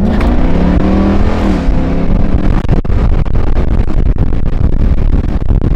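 Straight-piped 5.7 L Hemi V8 pulling hard under full throttle. The engine note climbs, drops at an upshift about a second and a half in, then runs on as a loud, rough exhaust rumble with crackles.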